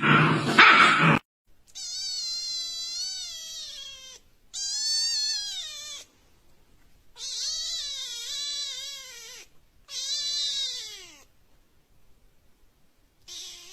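A cat meowing: four long, drawn-out meows that bend up and down in pitch with short silences between, and a shorter meow near the end. A brief burst of noise comes first.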